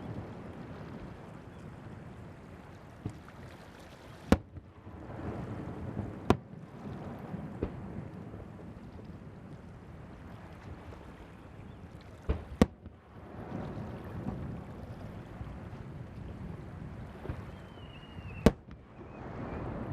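Aerial fireworks shells bursting: four sharp bangs spaced several seconds apart, plus a few fainter pops, over a steady low background noise.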